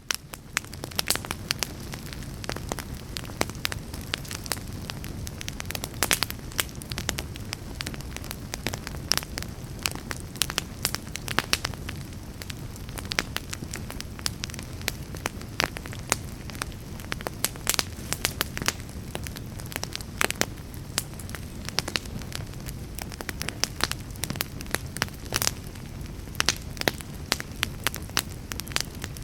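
Fire burning in a fireplace: a steady low rumble with frequent, irregular sharp crackles and pops, some much louder than others.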